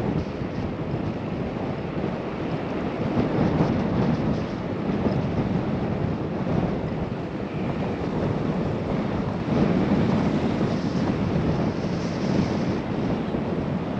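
Wind rushing over a GoPro microphone while cycling: a steady, low rushing noise that swells and eases slightly, despite the microphone's wind screen.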